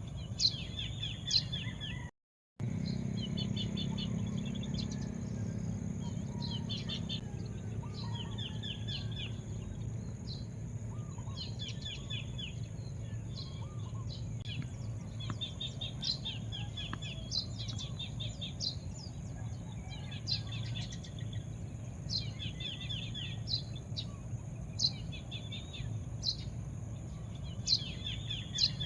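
Songbirds chirping, repeating short phrases of quick notes and single sharp chirps, over a steady low rumble. The sound drops out briefly about two seconds in.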